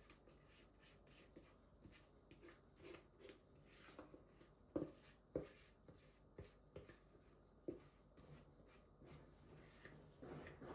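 Quiet handling sounds: soft rubbing and many light clicks, with a few sharper knocks around the middle.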